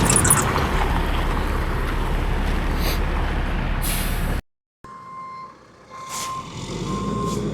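Kubota KX040-4 excavator's diesel engine running steadily while grading gravel. After a cut about four seconds in, a truck's backup alarm beeps about once a second, with the truck's engine rising underneath near the end.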